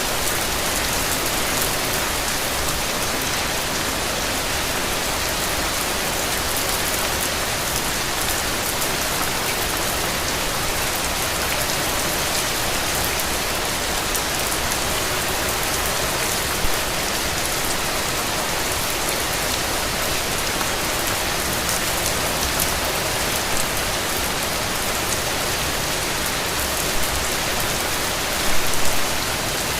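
Steady rain falling, an even hiss, with a few brief louder spatters of drops, several close together near the end.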